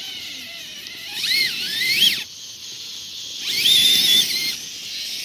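Electric motor and gears of a radio-controlled trail truck whining in two short throttle bursts, the pitch rising and falling with the throttle, over a steady hiss.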